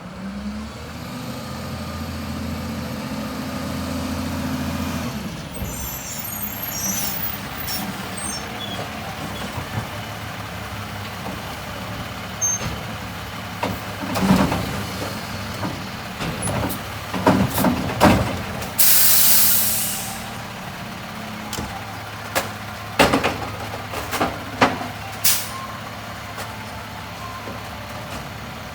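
A Peterbilt 520 garbage truck running, its engine steady and strongest in the first few seconds. Several sharp knocks and bangs come in the middle and later part, and a loud burst of air-brake hiss comes about two-thirds of the way through.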